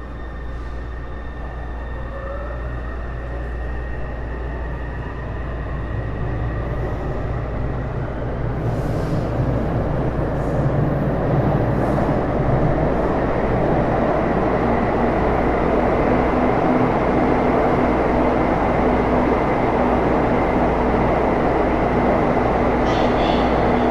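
Taipei Metro Series C301 train with Bombardier IGBT-VVVF traction, heard from inside the car, pulling away with a rising inverter whine. It grows louder for about twelve seconds, then settles into a steady rumble at running speed with a faint constant whine.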